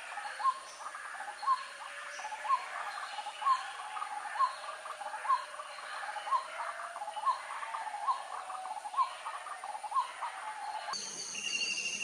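A bird repeating a short rising note about once a second over a steady background of outdoor ambience. Near the end the background changes abruptly.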